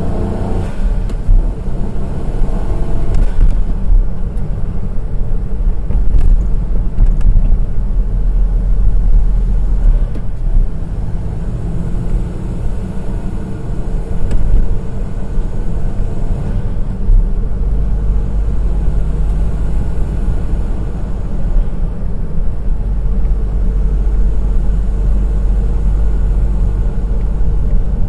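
Honda S660's small turbocharged three-cylinder engine driving along a winding mountain pass road, heard as a steady low rumble of engine, tyre and wind noise that swells and eases with the road.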